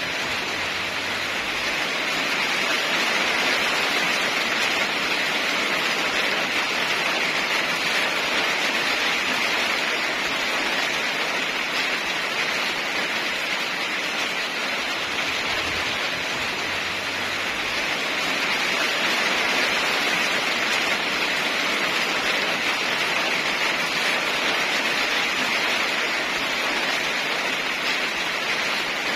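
Heavy rain falling steadily, a dense even hiss that swells and eases slightly in loudness.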